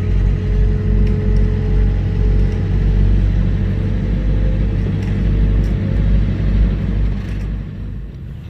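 Car driving, a steady low rumble of engine and road noise that fades down near the end.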